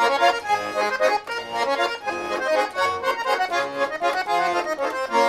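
Russian garmon (button accordion) playing a lively tune in quick runs of notes, then settling on a held chord near the end.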